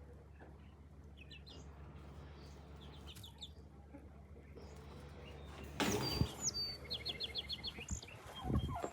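Backyard turkeys and chickens calling: faint short chirps at first, then a louder flurry about six seconds in with a quick run of high notes. A turkey gobble starts just before the end.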